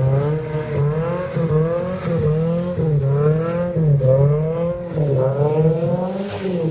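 A car engine being revved hard over and over, its pitch climbing and dropping about once a second, as the car tries to pull away hard.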